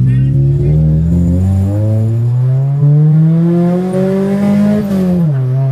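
Car engine accelerating hard in one gear, its pitch climbing steadily for about three seconds, then dropping sharply near the end as it shifts up, after which it runs steady.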